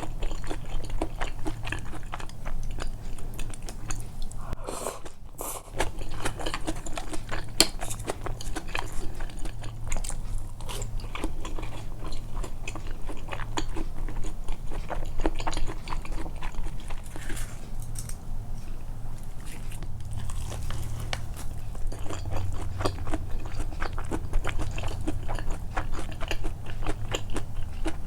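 Close-miked eating sounds of a meal of tempura and soba: a steady run of small wet clicks and soft crunches from biting and chewing, with a short pause about five seconds in.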